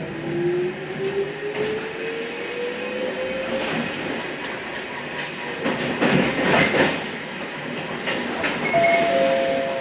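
A Toyama Chiho Railway 14760-series electric train pulling away. Its motor whine rises steadily in pitch for the first three or four seconds. About six to seven seconds in, a louder stretch of wheel clatter and squeal follows.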